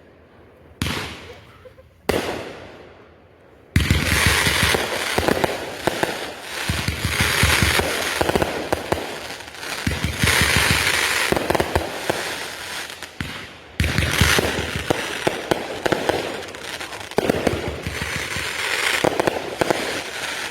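Consumer fireworks going off: two separate bangs, each with a fading tail, in the first two seconds, then from about four seconds in a dense, continuous barrage of cracks and bangs.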